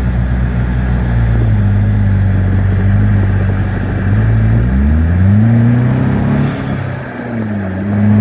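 Turbocharged Chevy engine of a Vanderhall three-wheeler pulling steadily, then revving up about halfway through. The revs drop away briefly with a faint hiss and come back up near the end.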